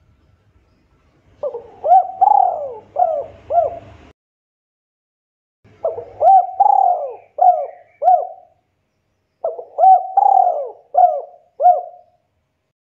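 Spotted dove (tekukur) cooing: three phrases of about five short coos each, separated by pauses of a second or two. It is a lure call played to prompt young doves to answer and start singing.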